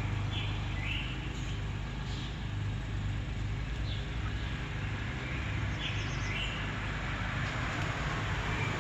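Short, high bird chirps, a few scattered through, over a steady low hum.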